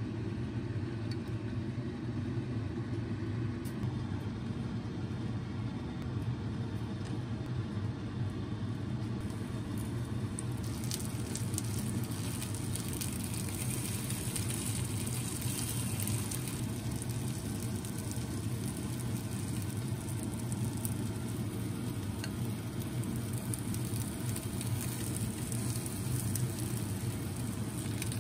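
Egg-dipped gimbap slices sizzling in oil in a frying pan, the crackle rising about ten seconds in and continuing steadily. A steady low hum runs underneath throughout.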